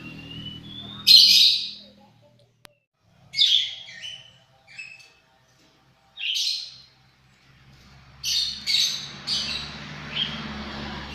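Lovebird giving short, shrill screeching calls, about eight of them at irregular intervals, coming faster in the last few seconds.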